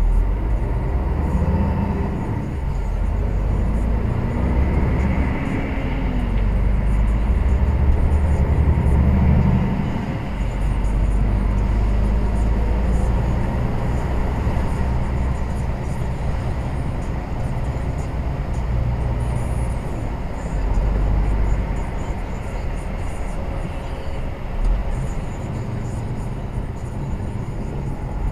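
Lorry on the move: a steady low engine drone with road noise over it.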